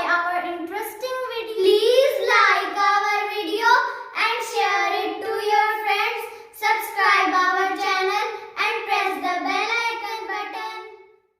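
A child singing a tune, with the voice sustained and gliding in pitch, stopping just before the end.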